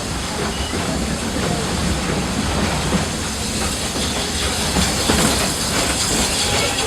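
Narrow-gauge steam train running, heard from aboard one of its passenger cars: a steady rumble of the cars on the rails with a hiss of steam that grows stronger about four seconds in.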